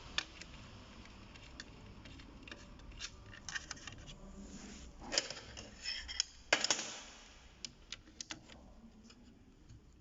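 Small plastic and metal clicks and scrapes as an alternator's rear plastic cover is fitted by hand, with louder clacks about five seconds in and again around six and a half seconds.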